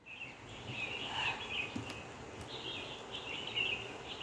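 Outdoor ambience with birds chirping: irregular high chirps over a steady background hiss.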